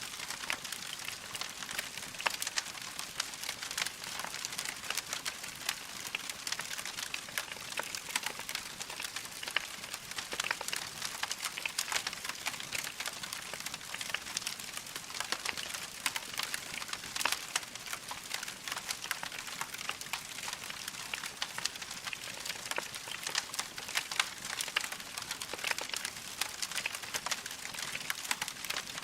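Wood fire crackling in a fireplace: a steady, dense patter of small pops and snaps from burning logs, with now and then a sharper crack.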